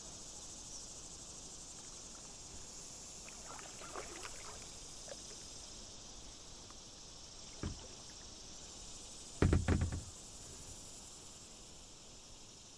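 Kayak paddling on calm water: quiet paddle strokes and drips, with a sharp knock at about seven and a half seconds and a louder cluster of knocks with a low thud at about nine and a half seconds, like the paddle striking the kayak's hull. A steady high hiss runs underneath.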